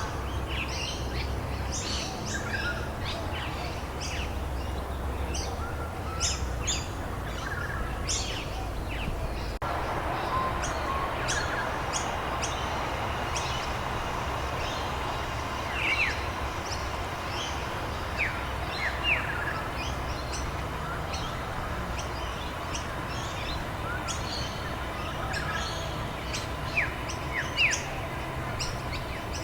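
Several wild birds chirping and calling: many short chirps, with a few clear, falling whistled calls around the middle and near the end, over a steady background hiss.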